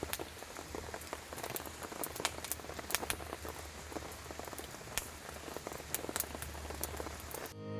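Steady rain falling, with many scattered sharp drops ticking on a surface; the sound cuts off just before the end.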